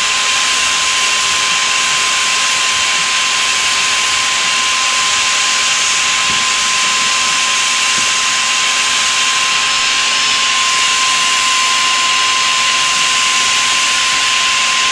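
Electric paint sprayer running steadily while spraying black Plasti Dip rubber coating onto a car body: a constant hiss with a steady high whine.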